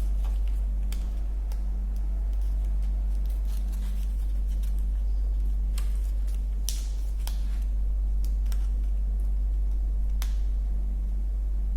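Scattered light clicks and taps of a laptop keyboard being handled and pressed into a Dell Vostro 15 3546 chassis as its tabs are seated, a couple of them sharper. A steady low hum runs underneath.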